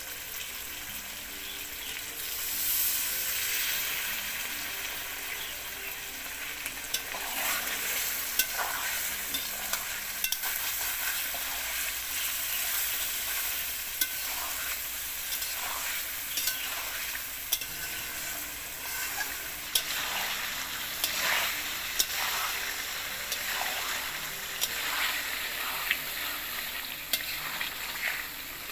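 Beef liver curry sizzling in oil in a metal pot as it is fried down with spices, while a steel ladle stirs it, with sharp clicks and scrapes of the ladle against the pot, more often in the second half.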